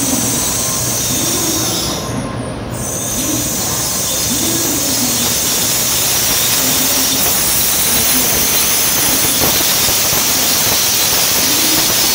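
N700A Shinkansen train rolling into the platform and slowing as it arrives, a steady train running noise with a high hiss that drops out briefly about two seconds in.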